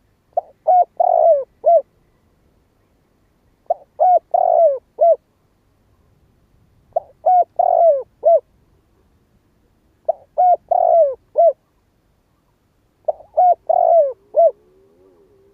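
Spotted dove cooing its territorial song, five phrases of four or five notes each, one about every three seconds.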